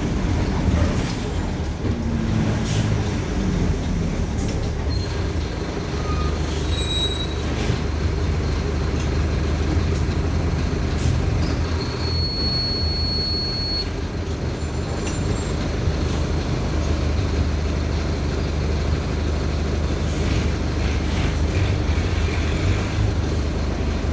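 Mercedes-Benz OF-1519 city bus diesel engine running steadily while the bus drives, its note dropping about two seconds in, with scattered body rattles and a brief high squeal about twelve seconds in.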